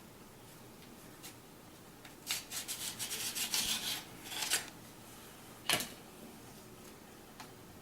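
Rail covers being slid off an airsoft carbine's handguard rail: a couple of seconds of quick scraping strokes, then one sharp click.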